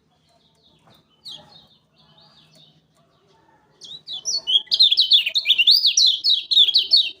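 Kecial kuning (a Lombok white-eye) singing. A few faint high chirps come first; then, about four seconds in, a loud, fast string of slurred, up-and-down notes starts and runs to the end.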